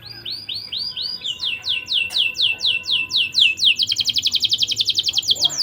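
Domestic canary singing a rolling tour of repeated falling whistled notes, first about four a second, then faster, breaking into a rapid trill of about a dozen notes a second near the end.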